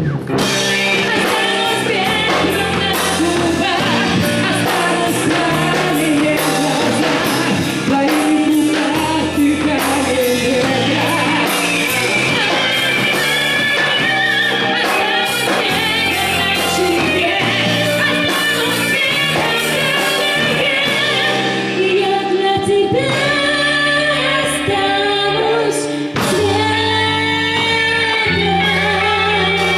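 Live band playing a pop song with a singer's voice over the accompaniment, starting abruptly just before and running on steadily.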